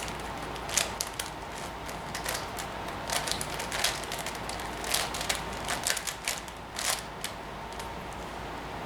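Plastic 5x5 Rubik's cube layers being turned by hand: a string of irregular clicks and clacks that stops about seven seconds in.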